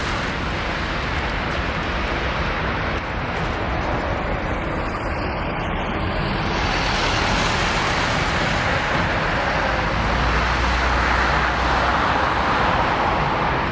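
Jet airliner engines running steadily at the airport, a continuous rushing rumble that grows a little louder about halfway through.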